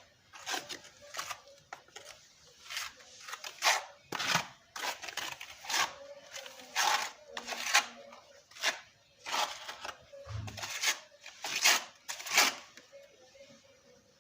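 Steel trowel scraping and spreading cement mortar while bricks are laid: a string of short, irregular scrapes, roughly one a second.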